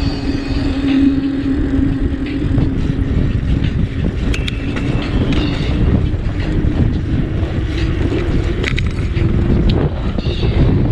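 Riding noise from a bicycle: wind rushing over the microphone and rolling road noise, with a steady low hum throughout. A few light clicks and short high squeaks are scattered through it.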